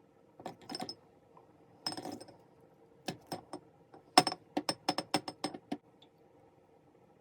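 Sharp clinks of hard objects, each with a short bright ring. A couple come about half a second in and a few around two seconds in, then a quicker run of about a dozen between three and six seconds in.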